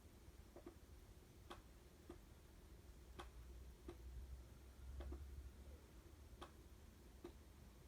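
Faint ticks, roughly one a second at slightly uneven spacing, over a low hum.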